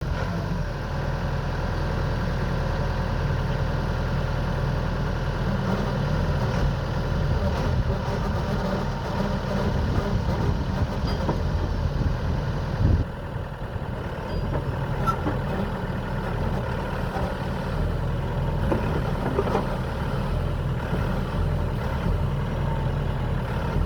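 Diesel engine of a Venieri VF 9.23 backhoe loader running steadily, with a short knock about thirteen seconds in, after which it is slightly quieter.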